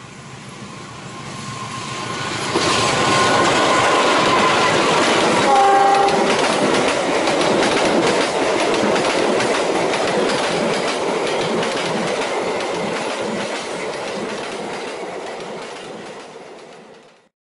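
A passenger train passing close by, hauled by a CC 206 diesel-electric locomotive. Its noise swells in over the first couple of seconds, and a short horn blast sounds about six seconds in. A long run of clickety-clack follows as the coaches' wheels cross the rail joints, fading and then cutting off just before the end.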